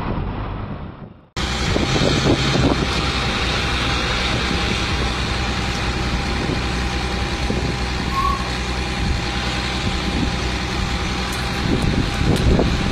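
Heavy truck's diesel engine running steadily. A different sound fades out just before it cuts in abruptly about a second in.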